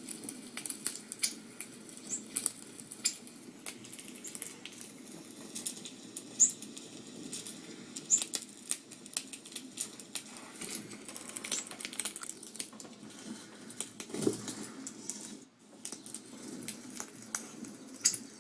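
Small birds chirping: a scatter of short, high chips and ticks, several a second, over a steady low hum.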